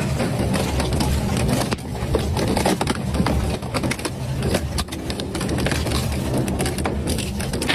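Double-shaft shredder running and crushing material, with a steady low rumble under many irregular cracks, snaps and crunches, and a brief dip in the crushing about two seconds in.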